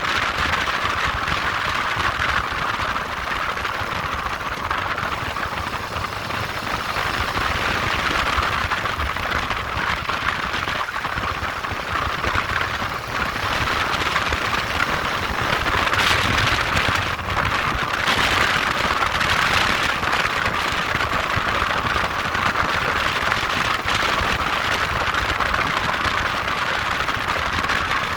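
Motorcycle engine running steadily, with a constant rushing hiss over it.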